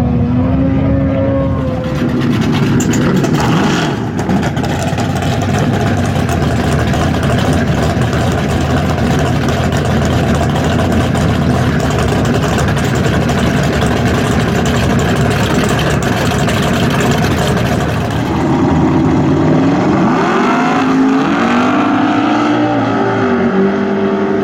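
Big-displacement V8 muscle-car engine run hard, loud and rough through most of the stretch. Near the end its pitch climbs twice as it pulls up through the revs.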